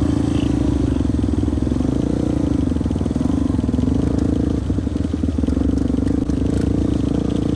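Dirt bike engine idling steadily, its pitch wavering a little.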